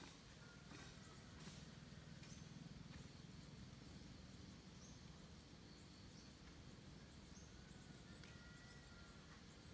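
Near silence: faint outdoor ambience with a low steady hum and a few faint, short, high chirps scattered through it.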